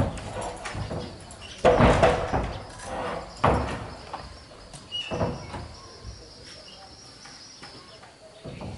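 A few scattered knocks and bumps. The loudest comes about two seconds in, with quieter ones about a second and a half and three seconds later.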